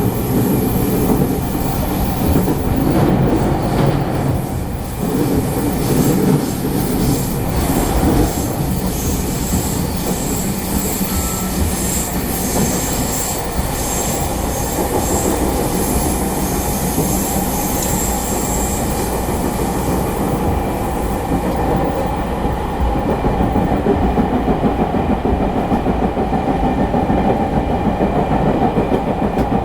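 Inside a JR East E217-series electric multiple unit running at speed: a steady rumble of wheels on rail with clickety-clack over rail joints. A faint high-pitched wheel squeal comes in about six seconds in and fades out around nineteen seconds, and a regular beat of joint clicks grows more distinct near the end.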